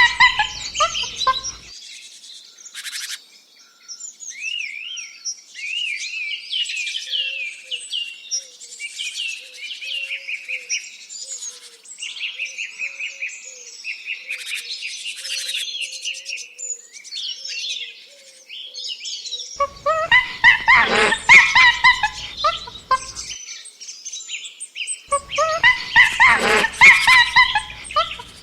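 Several birds chirping and singing, many quick high chirps overlapping, with a faint lower whistled note underneath. Twice, about two-thirds of the way through and again near the end, a loud harsh animal call breaks in over the birdsong.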